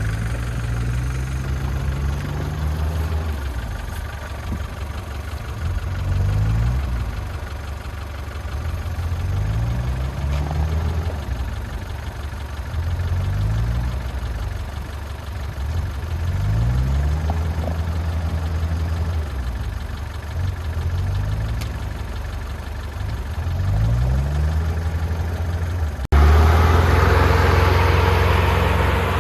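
Off-road SUV engine running at low speed, its revs rising briefly again and again every few seconds as the driver works the throttle. Near the end it cuts suddenly to a louder, harsher engine sound with more hiss.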